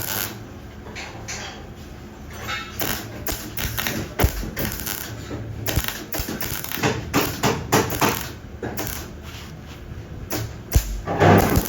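Irregular light clicks and knocks, with a louder cluster of knocks near the end.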